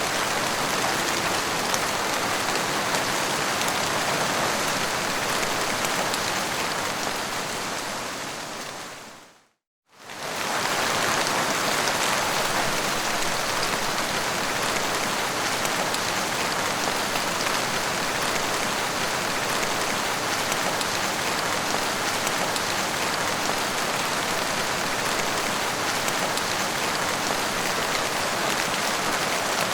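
Steady rain falling, an even hiss of many drops. About eight seconds in it fades down to a moment of silence, then fades back up to the same steady rain.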